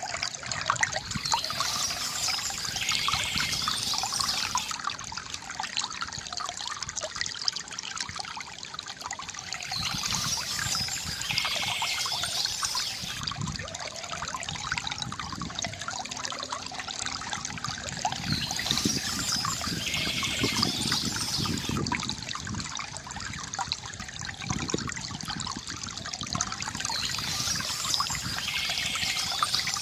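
Water trickling and gurgling steadily from a bamboo fountain, with a burst of high bird chirping that recurs about every eight to nine seconds.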